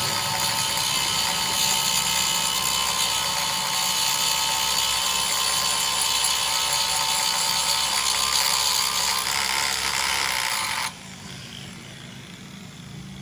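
A power tool running steadily with a high, whining tone, then switched off suddenly about eleven seconds in, leaving a lower hum.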